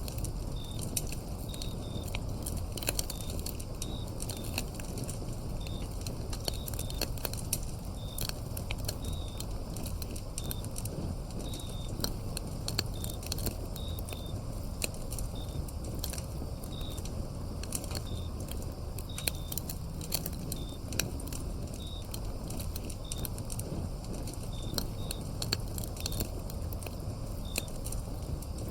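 Wood fire burning with frequent sharp crackles and pops over a low steady rumble, and crickets giving short repeated chirps throughout.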